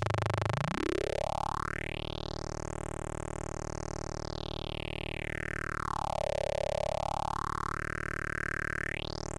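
A steady, buzzy synthesizer tone run through the Intellijel Atlantix's phaser filter. Its bright resonant peak sweeps slowly up to a high hiss-like whistle, falls back low around six seconds in, and rises sharply again near the end, with a phaser-like notched whoosh.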